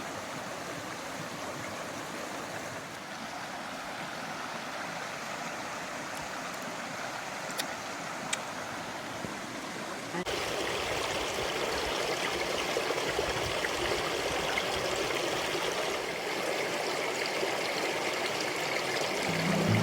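A creek running: a steady rush of flowing water. About halfway through it abruptly becomes a little louder and brighter.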